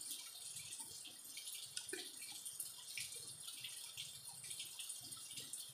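Mouth chewing slices of crunchy unripe green mango: a quick, uneven run of faint wet crunches and clicks.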